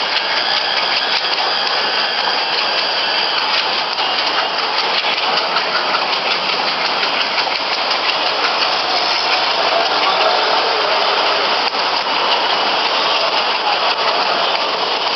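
WDM-3D diesel locomotive's engine chugging as the locomotive runs slowly, a steady loud running sound with no break.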